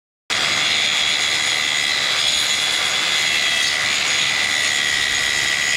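Electric woodworking power tool running steadily at full speed: a loud, even, high-pitched whine over a dense hiss, cutting in abruptly.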